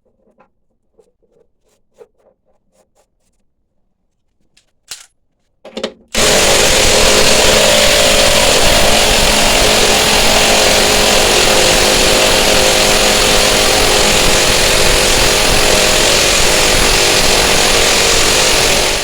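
A few faint clicks and knocks, then a power tool starts abruptly about six seconds in and runs loud and steady for about thirteen seconds before cutting off suddenly.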